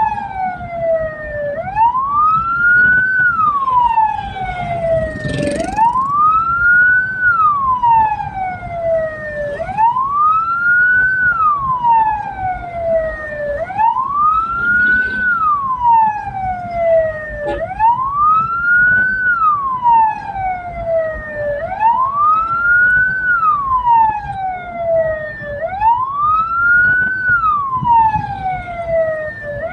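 Hearse's electronic wail siren cycling about every four seconds: each cycle rises quickly and falls slowly, over the rumble of the moving vehicle.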